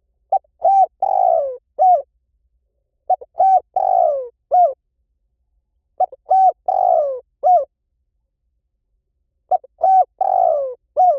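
Spotted dove calling: each phrase is a few quick coos, a longer coo that falls in pitch, then one short closing coo. The phrase comes four times, about every three seconds, as a lure call for drawing in wild doves.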